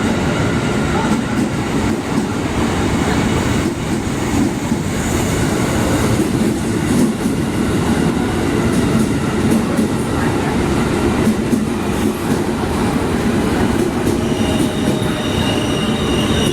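A train rolling past on the track: a steady heavy rumble with a constant clatter of wheels over the rails. A high-pitched wheel squeal starts near the end.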